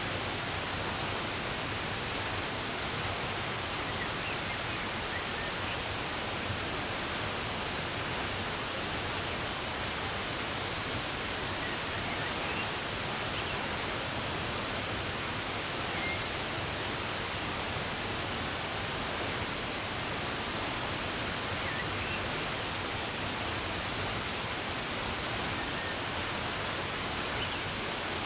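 Steady rush of running water, with faint, scattered bird chirps now and then.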